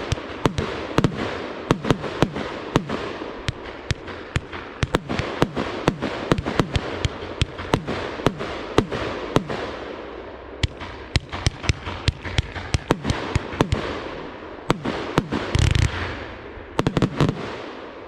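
Evolution Fireworks 'Otello' 100-shot 30 mm compound cake firing in rapid succession: sharp shots several a second, overlapping with the bursts overhead. Two louder, longer volleys come near the end.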